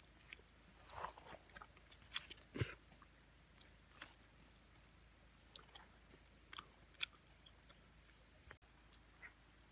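A person eating: quiet chewing with scattered crunchy bites, the loudest a few crunches about two seconds in.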